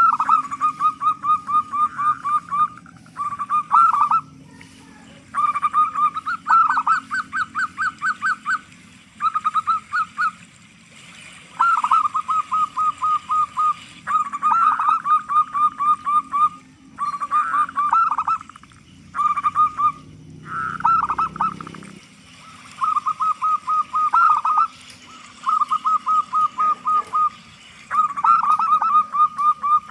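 Zebra dove (perkutut) calling: runs of rapid, clipped notes, about ten a second, in bursts of one to two seconds with short pauses between.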